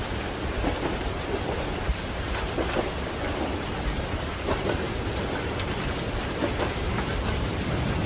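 Steady rain, with many small drop impacts, over a low continuous rumble.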